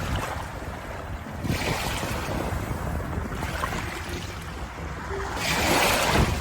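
Ocean waves washing onto a shore, with the surge of a breaking wave swelling about a second and a half in and a louder one near the end, over a steady low rumble.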